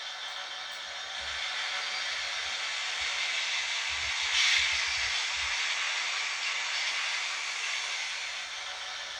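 N-scale Fleischmann 'Taigatrommel' model diesel locomotive and its tank-car train running on model track, a steady whirring rush that grows louder, peaks briefly about halfway as the train passes closest, then fades.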